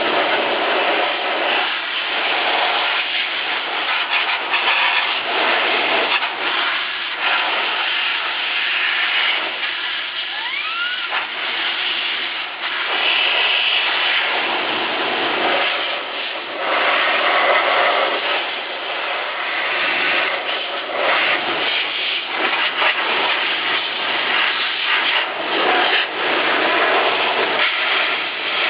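Vacuum cleaner in blowing mode blasting air into a PC case: a loud, steady rushing hiss that swells and dips as the nozzle moves, with a brief rising whistle about ten seconds in.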